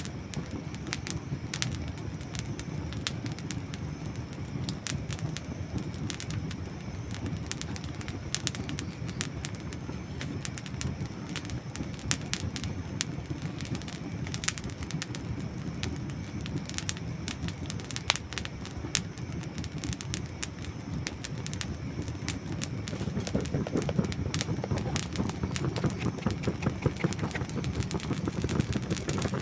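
Campfire of dry wood burning, with frequent sharp crackles and pops over a steady low rumble. The rumble grows louder about three-quarters of the way through.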